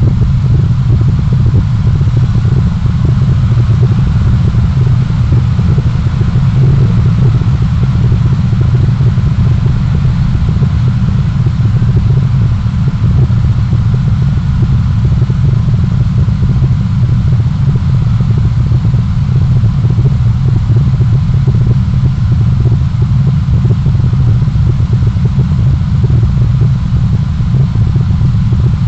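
Steady low rumble of a vehicle driving on city roads, engine and road noise running without a break.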